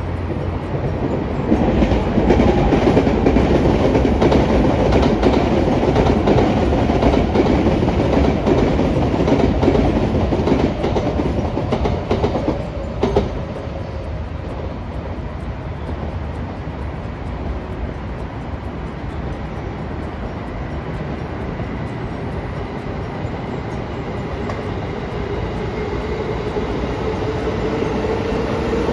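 A train running past, a dense rumble with wheels clicking over rail joints, loudest for the first ten seconds or so, with a sharp clack about thirteen seconds in. It then eases to a steadier, lower rumble, and a rising whine comes in near the end.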